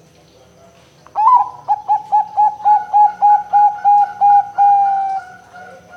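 Zebra dove (perkutut, Bangkok type) singing: about a dozen quick staccato coos, roughly four a second, ending on a longer drawn-out note.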